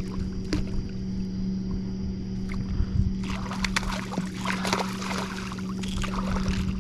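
A hooked channel catfish splashing and thrashing at the water's surface beside a kayak for a few seconds from about halfway in, over a steady low hum.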